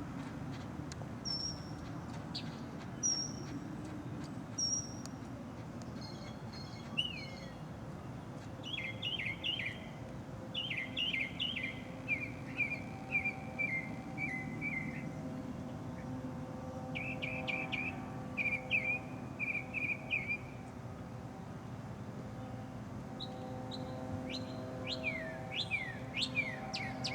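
Small birds chirping and singing: a few short high notes, then rapid trilled phrases of falling notes, repeated several times. Under them runs a steady low hum, and a droning motor-like tone comes in about halfway and grows louder near the end.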